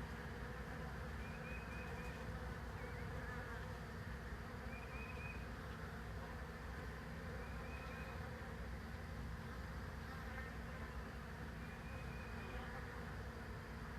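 A swarm of honeybees buzzing steadily: the dense, unbroken hum of many bees flying around the swarm cluster just after it has left the hive.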